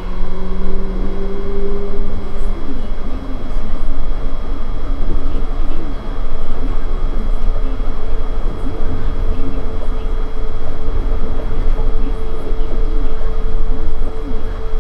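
Nippori-Toneri Liner 330-series rubber-tyred automated guideway train running at speed, heard from inside the car: a steady rumble of tyres on the guideway with motor whine. A pair of whine tones rises slightly and fades in the first two seconds, and a steady higher hum takes over.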